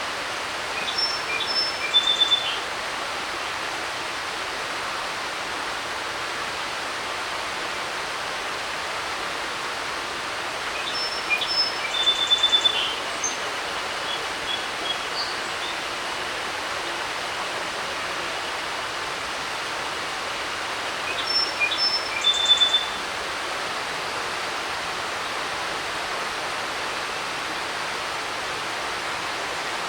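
Creek water rushing steadily, with a songbird singing a short song of about two seconds three times, roughly every ten seconds.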